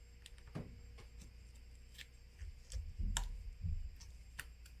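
Light, scattered clicks and taps of plastic opening picks against a phone's plastic back cover as it is pried open, with a few dull knocks of handling on the bench around the middle.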